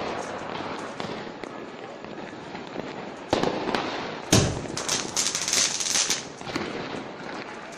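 Fireworks going off: a steady crackle and hiss, a sharp bang about three seconds in and a louder, deeper bang just after four seconds, followed by about two seconds of dense crackling.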